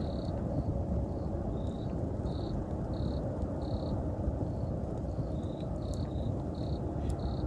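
Wood fire burning with a steady low rush and a few sharp crackling pops, while an autumn insect chirps in short, even pulses about once or twice a second.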